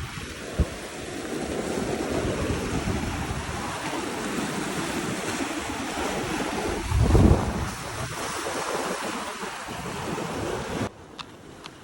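Ocean surf washing in, with wind buffeting the microphone; a heavier surge about seven seconds in. The sound drops away abruptly near the end.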